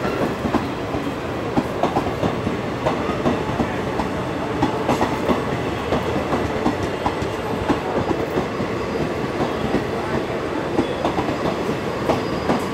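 Passenger coaches of an express train rolling past at speed: a steady rumble of wheels on rail with a rapid, irregular clatter of clicks as the wheels cross rail joints.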